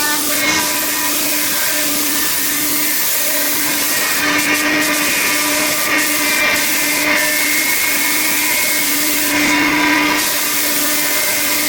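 5-axis CNC machining centre with a point-to-point table running: a steady machine tone under a constant hiss. Several short, sharp hissing bursts come about four, six, seven and nine and a half seconds in.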